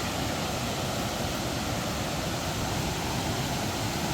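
Steady rushing noise of a large waterfall's falling water.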